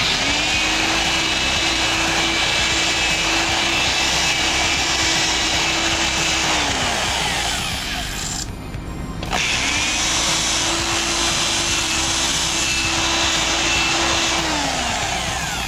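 Handheld rotary grinder spinning up, grinding metal and winding down, twice, each run lasting about seven seconds with a short break between. It is elongating the push-rod holes in a single-cylinder engine's cylinder head to clear a high-lift cam's push-rod geometry.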